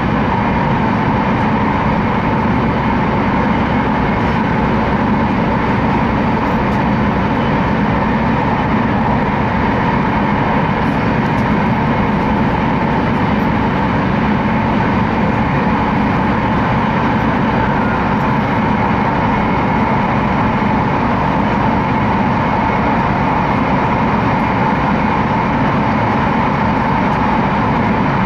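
Passenger cabin of an E2 series Shinkansen train under way, heard from inside: a steady, unbroken rushing noise with a constant tone running through it.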